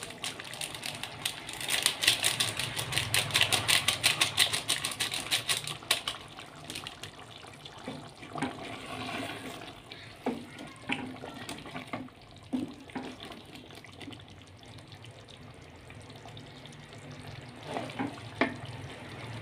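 Chicken masala frying in oil in an aluminium pot while a wooden spoon stirs it. A dense crackling sizzle is loudest in the first few seconds, then settles to a steadier sizzle, with a few knocks of the spoon against the pot. The oil is starting to separate from the masala.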